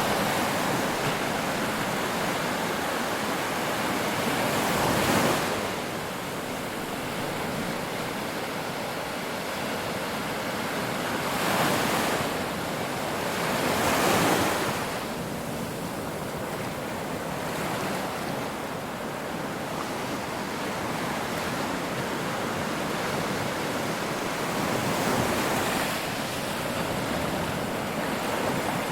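Ocean surf: waves breaking on a shore over a continuous wash, with the loudest breakers about five seconds in, around twelve and fourteen seconds in, and near twenty-five seconds in.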